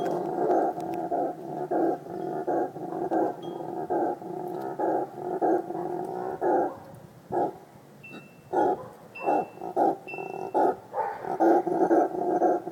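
Male brown howler monkey (bugio) howling: a rhythmic run of rough grunting roars, several a second. The calls thin to a few separate pulses midway, then build back into a dense run near the end.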